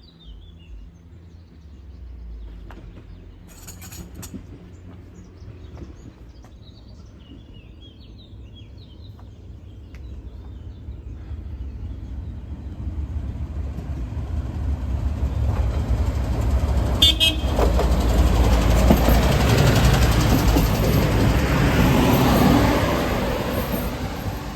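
A passenger train approaching and passing close by: a low rumble that grows steadily, a short horn blast about two-thirds of the way in, then the train's full noise at its loudest as it passes, beginning to die away near the end.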